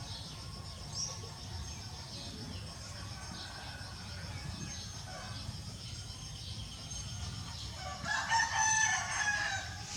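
A bird's call: one long call of under two seconds about eight seconds in, over a faint steady high tone.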